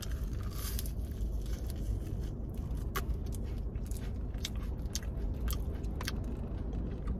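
Biting and chewing a cookies and cream Kit Kat, its chocolate-coated wafer giving a scatter of crisp crunches over a steady low hum.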